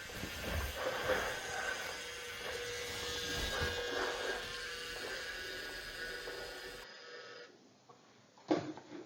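Battery-powered Brio toy engine running on wooden track: a steady small-motor whir with rumbling from the wheels over the track. It cuts off suddenly near the end, followed by a single click.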